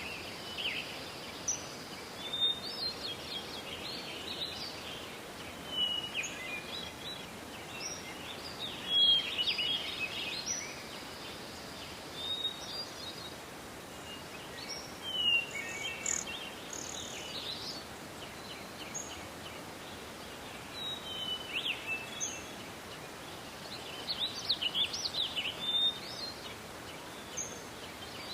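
Several small songbirds chirping and twittering in a forest, with short calls and song phrases coming every second or two and a busier stretch near the end, over a steady faint hiss of background forest noise.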